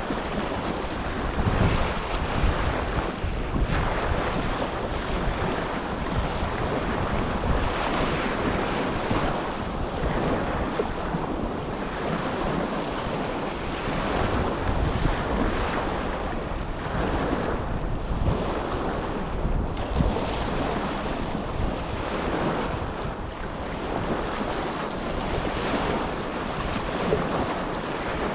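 Small waves washing and breaking on the Dead Sea shore, in swells every few seconds, with wind buffeting the microphone.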